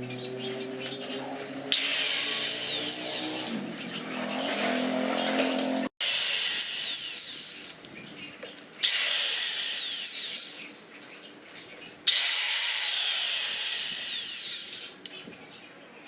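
A power tool run in four short bursts of two to three seconds each, with quieter pauses between them.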